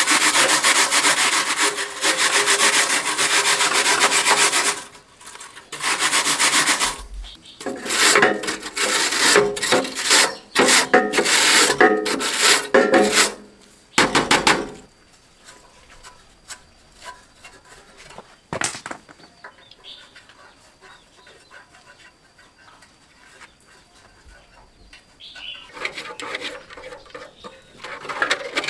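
Rasping, scraping strokes of abrasive hand work on a part, like filing or sanding. A long unbroken stretch comes first, then shorter bursts. After that it falls mostly quiet apart from a single sharp knock, and the scraping starts again near the end.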